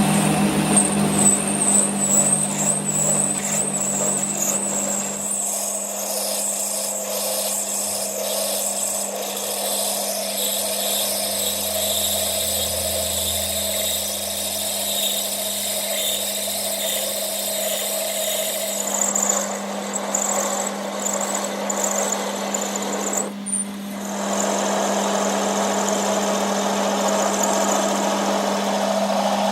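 A workshop power tool or machine running steadily with a constant hum and a rough high-pitched cutting noise over it. The noise changes character a few times and breaks off briefly about 23 seconds in.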